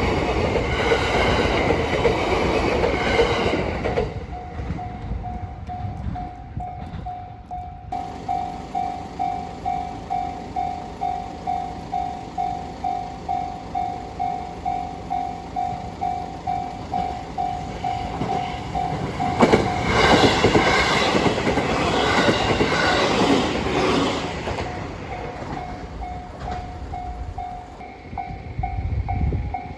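A train passes over a railway level crossing with loud wheel and rail noise. Then the crossing's electronic warning bell rings in a steady, evenly spaced ding just under twice a second. About 20 s in a second train passes loudly, and the warning bell rings on again near the end.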